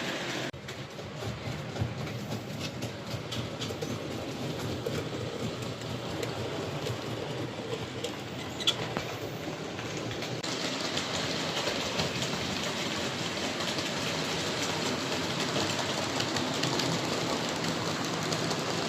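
Model trains running on a model railway layout: the steady rattle and hum of small wheels and motors on the track, with a couple of sharp clicks.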